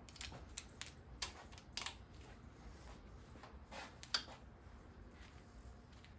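Scattered light clicks and clinks of metal hand tools, a socket being tried on engine bolts: about seven sharp ticks over the first four seconds, then only a low background.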